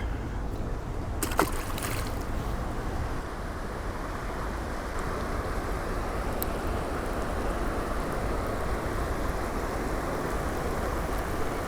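Steady hiss of light rain starting to fall, thickening after the first few seconds, over a low rumble. A single sharp click comes about a second and a half in.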